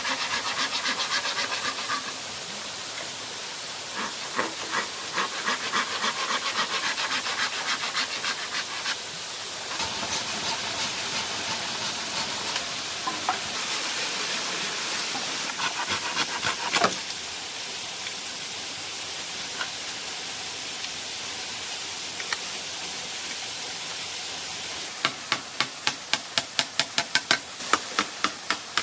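Bamboo being worked with hand tools: fast runs of rubbing or scraping strokes, then a run of sharp, evenly spaced knocks near the end. A steady hiss of rushing water runs underneath.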